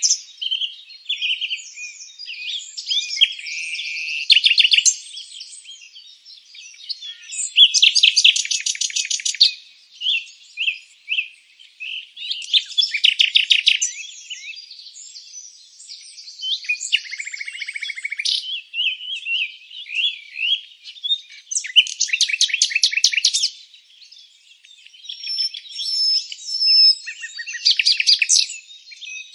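Several songbirds singing together, overlapping chirps and fast trills lasting a second or two each, with short pauses between phrases.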